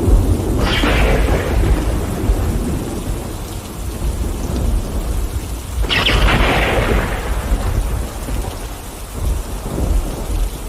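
Thunderstorm: steady rain over a continuous low rumble of thunder, with two sharp claps of thunder, about half a second in and again about six seconds in, each dying away over a second or two.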